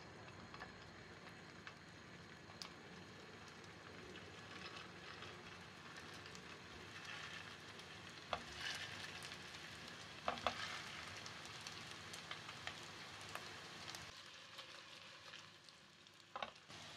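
Food sizzling steadily as it fries in a pan, with a few short knocks of a utensil against the pan.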